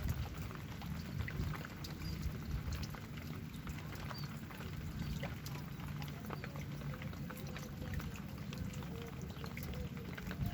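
Steady rain falling, with individual drops striking close by as many scattered sharp ticks over a low rumble.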